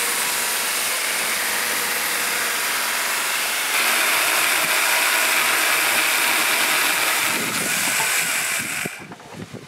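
Festool electric chain beam saw (SSU 200 EB sword saw) running on its guide rail and cutting through an oak beam: a steady, loud chain-and-motor noise that grows louder about four seconds in and cuts off about nine seconds in.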